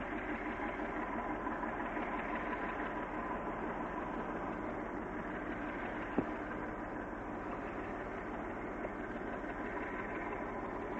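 Diesel locomotive engine running steadily, with a single sharp click about six seconds in.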